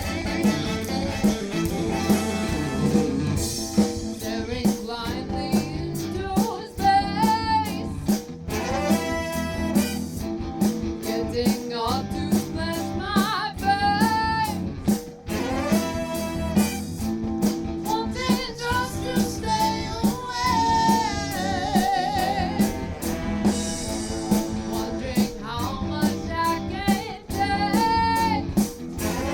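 Live band playing a song with a steady drum beat, guitar and horns, with a melody line gliding between notes like singing or a saxophone.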